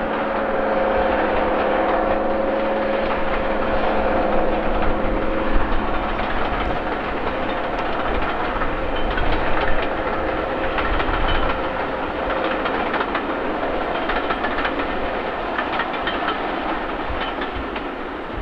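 A train passing, its wheels clicking over the rail joints as the carriages roll by. An engine tone fades away in the first few seconds.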